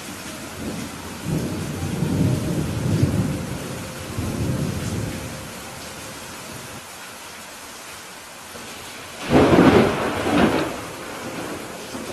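Steady rain with thunder: a low rolling rumble swells about a second in and lasts several seconds. About nine seconds in comes a sudden, louder, sharper thunderclap, with a second crack a second later.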